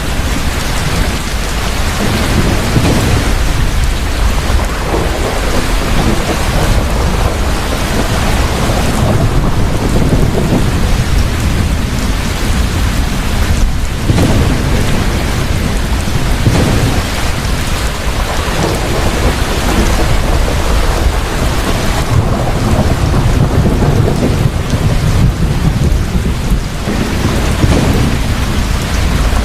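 Heavy, steady rain during a thunderstorm, with deep rolling thunder rumbling under the downpour.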